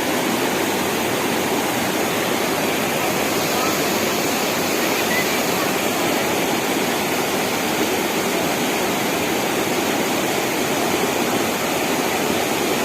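Steady loud rushing of a flooded mountain stream in spate, its torrent running without break.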